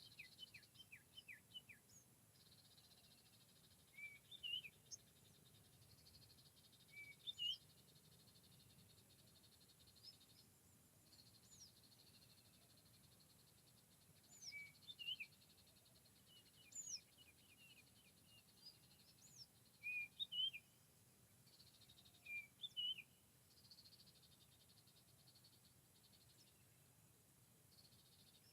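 Songbirds chirping in short, quick phrases every few seconds, over a faint, steady high-pitched insect drone.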